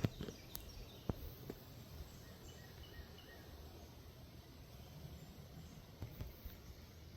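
Faint outdoor ambience with a few soft, short bird chirps about two to three seconds in, and a few sharp clicks in the first second and a half.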